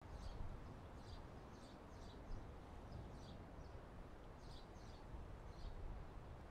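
Faint, short, high chirps of small birds, about ten scattered through, over a low steady outdoor background rumble.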